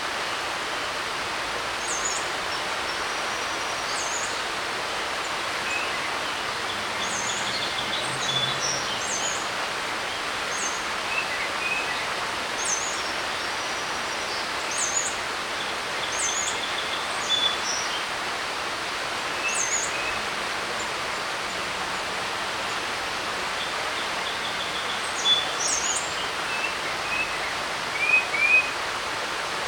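Mountain creek rushing with a steady hiss like TV static. Over it, birds are chirping: a short high call repeats about every two seconds, with other quick notes in between.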